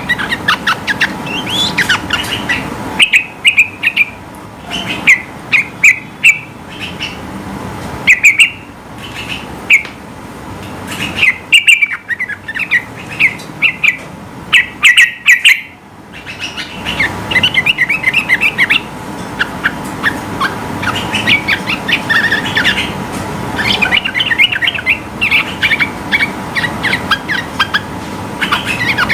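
Yellow-vented bulbul (trucukan) singing: bursts of rapid, high chattering notes strung into long phrases, with short pauses between them.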